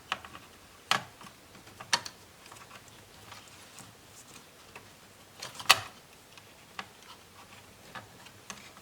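Scattered sharp clicks and taps of a screwdriver and small metal and plastic laptop parts being handled as the heatsink and fan are taken out, about one a second at first, with the loudest click and a short flurry about six seconds in.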